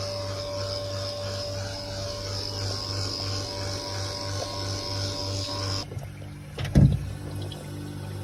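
Steady electric motor hum with a high hiss over it; the hiss cuts off suddenly about six seconds in, and a single loud knock follows soon after.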